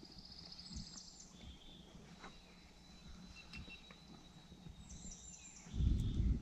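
Small birds singing and chirping faintly over quiet outdoor ambience by a creek, in short high trills and tweets. Near the end a louder low rumble cuts in.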